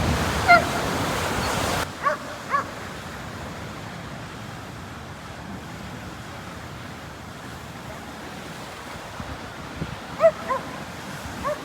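Ocean surf and wind buffeting the microphone, the wind noise dropping off about two seconds in, with a few short distant calls or yelps heard now and then.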